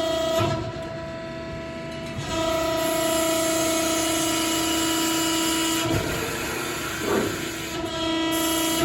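Cincinnati 175CB II press brake running a cycle: a steady pitched hydraulic whine that drops away about half a second in, returns about two seconds in, drops again about six seconds in with a knock, and returns near the end.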